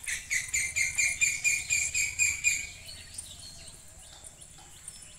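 A bird calling close by: a rapid series of high, ringing notes, about four a second, for the first two and a half seconds. Fainter chirps follow after that.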